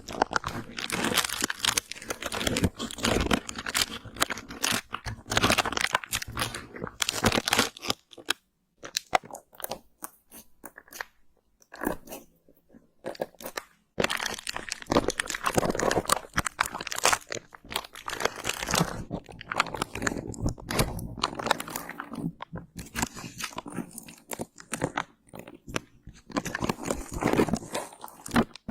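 Close-miked ASMR crunching and crackling sound effects, dense runs of sharp crackles broken by a few short pauses, a long quiet stretch a little before halfway.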